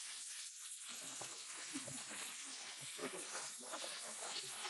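Steady hiss of wind rushing over the microphone, with irregular low buffeting; no clear engine note stands out.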